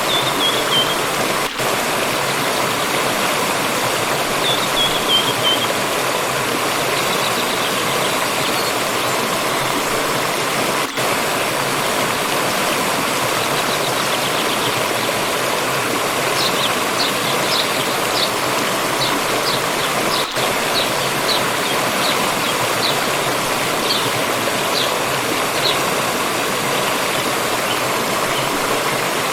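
Steady rushing of a forest stream, with small birds chirping high above it: a short falling run of notes twice in the first few seconds, then a string of brief chirps through the second half.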